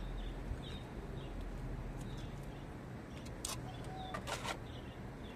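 Small birds chirping again and again, with a few sharp scrapes and taps of a plastering spatula in a bowl of plaster mortar around the middle, over a low steady hum.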